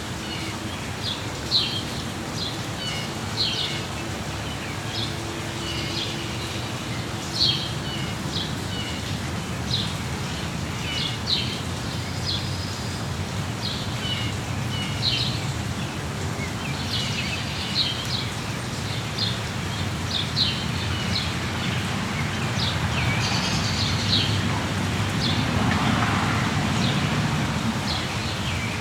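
Small birds chirping in short, repeated calls over a steady hiss of rain, the hiss growing a little louder near the end.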